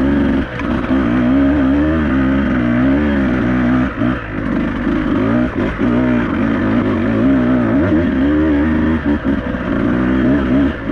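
Beta 200RR two-stroke enduro motorcycle engine under way, its revs rising and falling as the throttle is worked, with a few brief drops when the throttle is rolled off.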